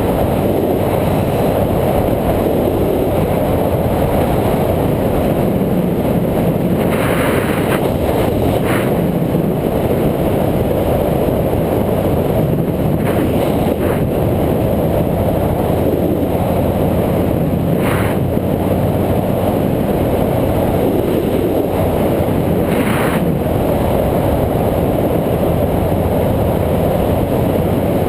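Steady, loud rumble of wind and riding noise on the camera of a moving bike, with a handful of short rattles or knocks scattered through it.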